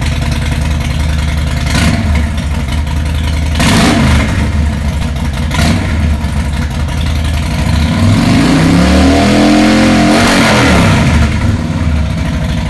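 A loud engine running and being revved, its pitch climbing and falling back once between about eight and eleven seconds in, with a few sharp bursts of noise in the first half.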